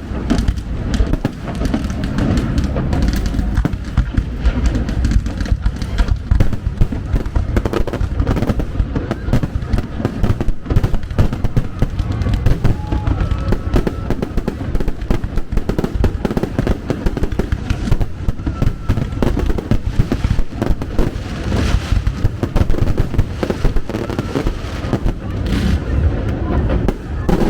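Fireworks show: rapid, overlapping bangs and crackles of bursting shells with a continuous low rumble.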